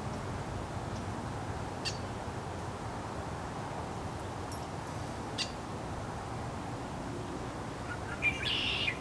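Wild bird calls: short chirps about two and five seconds in and a brief call near the end, over steady outdoor background noise.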